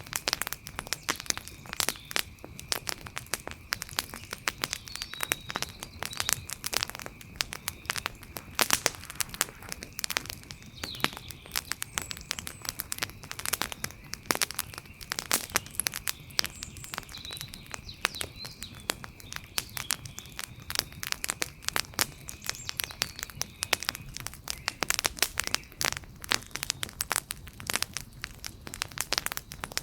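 Wood fire crackling, with dense irregular pops and snaps as the burning wood splits. A faint steady high tone sits underneath and fades out about three-quarters of the way through.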